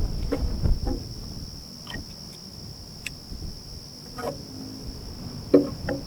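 Crickets trilling steadily at a high pitch, with scattered clicks and knocks over it, the loudest about five and a half seconds in, and a low wind rumble on the microphone in the first second.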